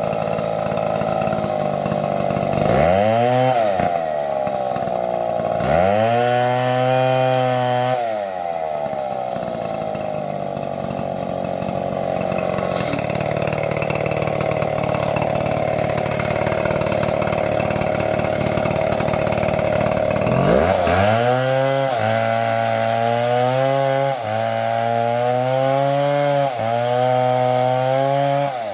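STIHL MS720 chainsaw running at high revs. Its pitch drops and climbs back twice early on, holds steady through a long middle stretch, then dips and recovers about once a second near the end.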